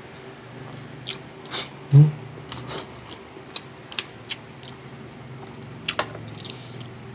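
Close-up eating sounds: a person chewing a mouthful of food, with scattered short wet clicks and smacks of the mouth, and one louder low thump about two seconds in.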